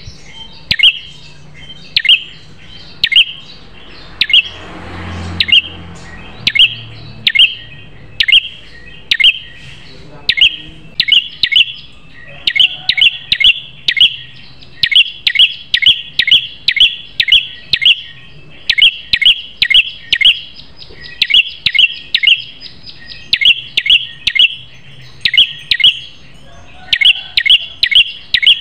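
Prenjak kepala merah (red-headed prenjak) calling: sharp, loud chirps repeated about once a second, then coming faster in quick runs of three or four notes.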